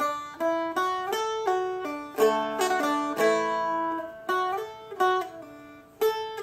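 Seagull Merlin M4 strumstick played slowly note by note, single plucked notes and open strings ringing over one another in a slow melody, with a short pause about a second before the end.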